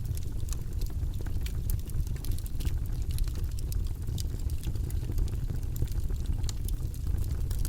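Campfire crackling: a steady low rush of burning wood with frequent short, sharp pops and snaps scattered throughout.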